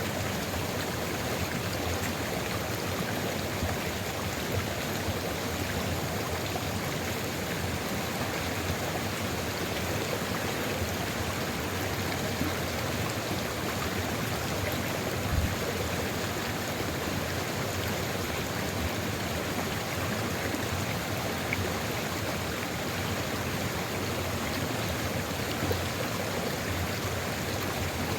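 Sulfur river flowing steadily: an even, unbroken rush of running water, with one brief low thump about halfway through.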